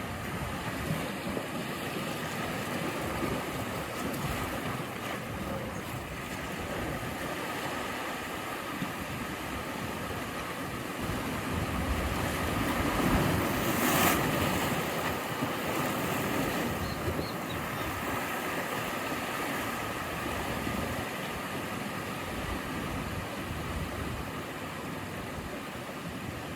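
Ocean surf: waves washing and breaking on the shore in a steady rush, with one louder wave breaking about halfway through.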